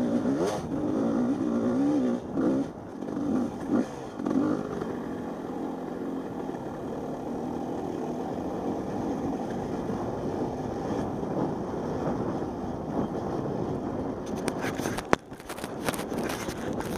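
Two-stroke 250 Husqvarna dirt bike engine revving up and down for the first few seconds, then running at a steadier, lower speed. Near the end come a series of clicks and knocks, one of them sharp, about fifteen seconds in.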